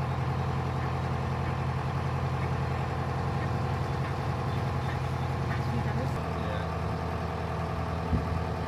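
Narrowboat's diesel engine running steadily under way; its note shifts slightly about six seconds in, with one short knock near the end.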